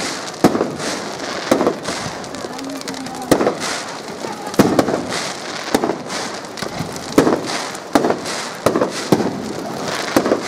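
Aerial fireworks going off: sharp bangs of bursting shells at uneven spacing, roughly one a second, over a steady hiss.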